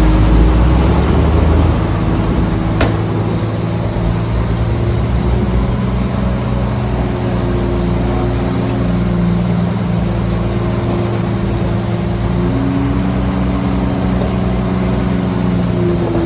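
Heavy construction-machine diesel engine running steadily at an even pitch. A deep low rumble drops away about two seconds in, and there is a single click about three seconds in.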